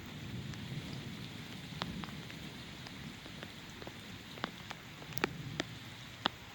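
Steady rain falling during a night thunderstorm, with irregular sharp ticks of single drops striking, roughly one a second.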